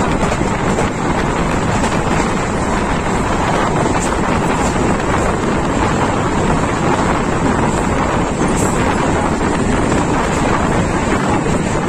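Wind buffeting the microphone over the steady running noise of a moving passenger train, heard from an open coach window.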